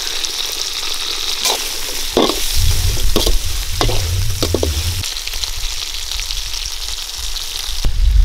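Shallots, garlic, green chillies, tomatoes and cumin seeds sizzling as they fry in a large metal kadai, with a steady hiss. They are stirred with a perforated metal ladle that clinks and scrapes against the pan several times in the first half, and there is one more knock near the end.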